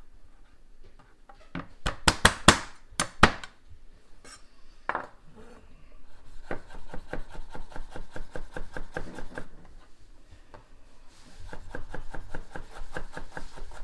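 Kitchen knife mincing crushed fresh ginger on a cutting board: a few loud sharp knocks about two seconds in, then quick, even chopping strokes, about five a second, in two long runs.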